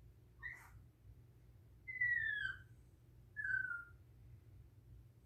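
Chihuahua crying in high-pitched, falling whines that sound like a child screaming: a short yelp about half a second in, then two longer cries that slide down in pitch, about two and three and a half seconds in. The cries are distress at being left alone, which the owner puts down to its mistress being away.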